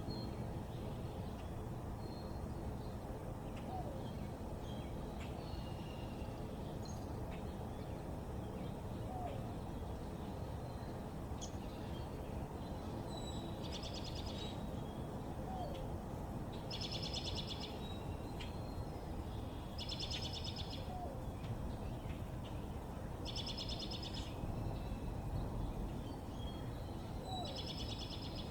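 A songbird singing short, rapid trills of repeated high notes, five times about three seconds apart from around halfway in, with scattered faint chirps before, over a steady low background noise.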